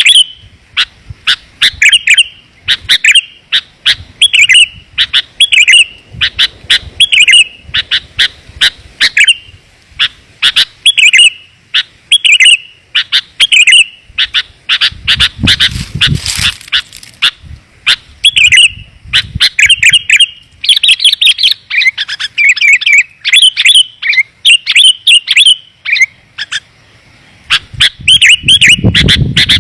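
Sooty-headed bulbul (kutilang) song: loud, clear, bubbly chirping phrases repeated in close succession, about one a second, played as a lure call to draw wild bulbuls. A brief rushing hiss sounds about halfway through.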